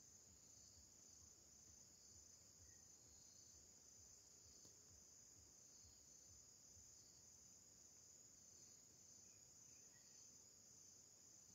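Faint, steady, high-pitched insect trill, like a cricket's, running without a break.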